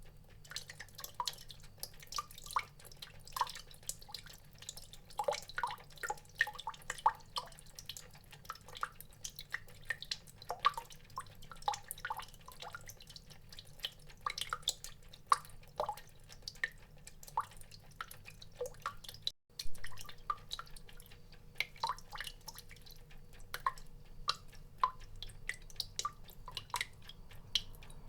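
Water drops dripping irregularly, several a second, each a short pitched plip. The sound cuts out for an instant about two-thirds of the way through.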